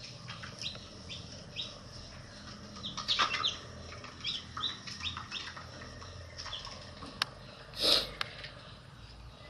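Baby chicks peeping: many short, falling chirps, several a second, with a brief rustling burst about eight seconds in and a single sharp click just before it.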